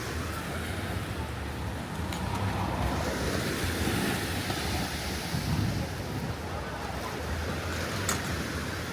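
Surf washing onto the beach, swelling to a louder wash in the middle, with wind buffeting the microphone. Two faint clicks cut through, one about two seconds in and one near the end.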